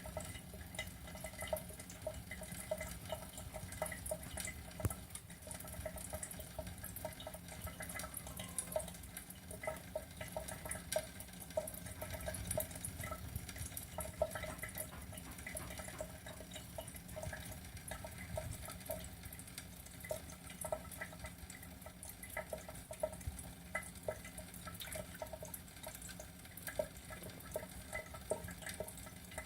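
Water trickling and dripping, with many small irregular splashes and ticks.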